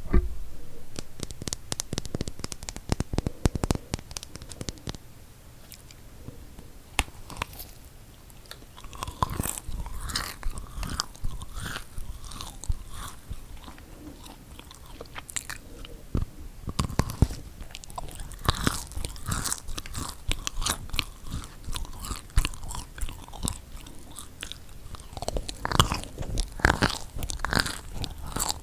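Close-miked biting and chewing of chocolate-coated marshmallow cookies, with crisp crunching clicks from the chocolate shell. The clicks come thickest in the first few seconds, then return in clusters of bites and chews.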